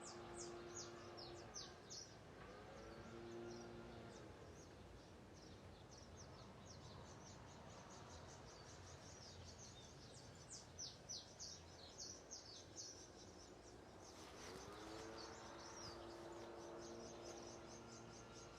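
Faint small birds chirping in quick runs of short, high, falling notes, bunched near the start and again about ten to thirteen seconds in, over quiet outdoor background noise. A faint steady low hum fades in about two seconds in and again near the end.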